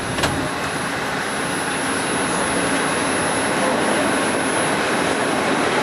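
Steady rushing and rumbling of a passenger train running, heard at a carriage window: wheels on the rails and air noise, slowly growing louder, with one sharp click about a quarter second in.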